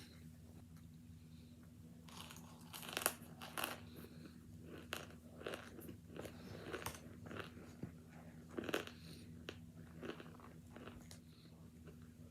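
Hard chunks of cornstarch baby powder, packed in a bottle, boiled and frozen, being bitten and chewed, giving a series of irregular, brittle crunches. They start about two seconds in, and the loudest bites come near three seconds and near nine seconds.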